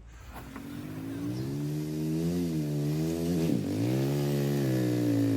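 Four-wheeler (ATV) engine running and revving, getting louder as it approaches, its pitch rising and falling with a brief drop about three and a half seconds in.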